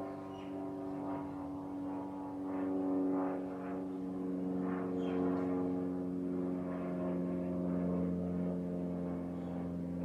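A steady engine drone, slowly drifting in pitch and growing a little louder, with faint bird chirps over it.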